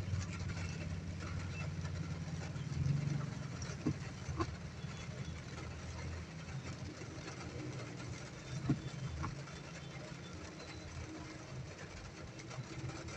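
Inside a car's cabin in rain: a steady low engine rumble under a light hiss, with a few short taps, twice around four seconds in and once near nine seconds.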